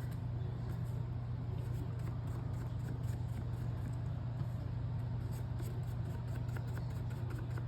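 Steady low hum with a few faint, soft taps and rubs over it.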